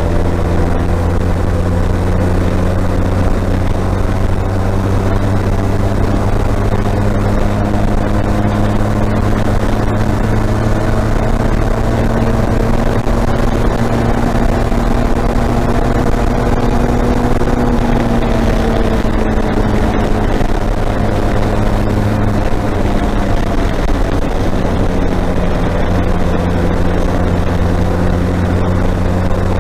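Motorcycle engine running at a steady cruise over a constant rush of wind and road noise. The engine note climbs slightly from about a third of the way in, then eases back down about two-thirds of the way through.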